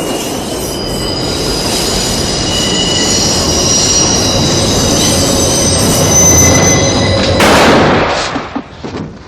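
New York 4 train subway wheels screeching on the rails: several high, shrill tones over a rumble, growing steadily louder for about seven seconds. The screech cuts off abruptly into a sudden loud burst, with a smaller burst a moment later.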